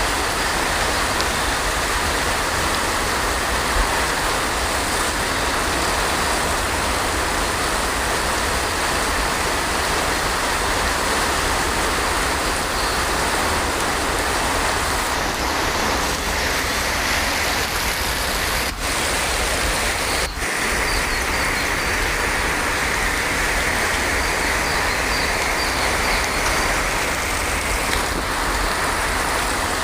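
Heavy rain falling steadily, an even hiss with no change in strength, broken only by two very brief dropouts about two-thirds of the way through.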